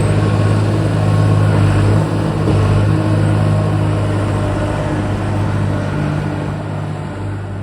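Skid steer engine running steadily with a deep hum, dipping briefly about two seconds in.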